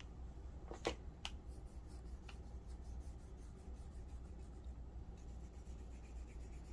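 Faint rubbing on paper as fountain pen ink is swabbed onto it, with two light clicks about a second in, over a steady low hum.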